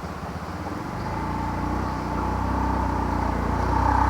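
A small motorbike engine running and coming closer, growing steadily louder from about a second in, with a steady whine above the engine note.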